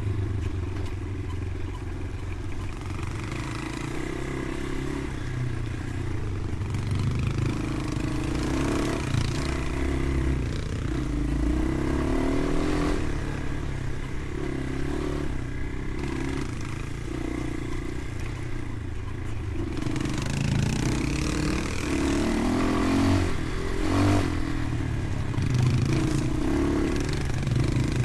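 Motorcycle engine running while riding, with wind and road noise.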